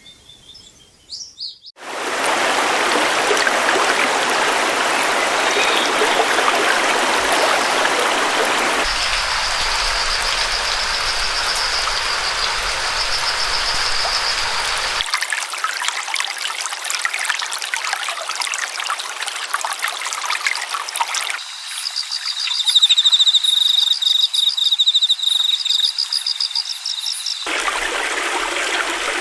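Flowing stream water rushing steadily, in several recordings spliced with abrupt changes of tone. High-pitched trilling calls ride over it twice. A few bird chirps come before the water starts.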